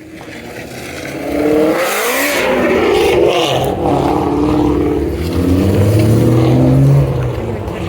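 A car's engine revving and accelerating as the car drives past. The engine note climbs in pitch early on, then grows louder to a peak near the end before dropping away.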